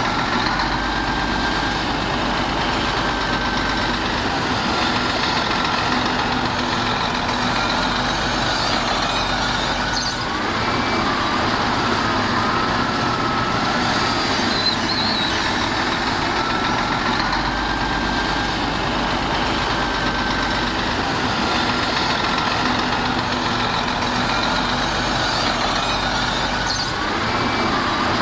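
Heavy diesel earth-moving machinery running steadily under load, with a low rumble that swells and fades and a faint wavering whine.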